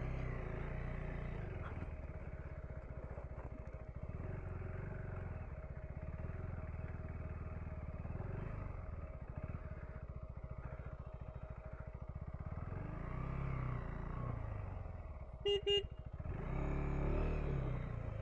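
KTM 390 Enduro R single-cylinder engine running at low speed over rocky ground, rising and easing with the throttle and louder again near the end. Two short, sharp beeps about fifteen seconds in.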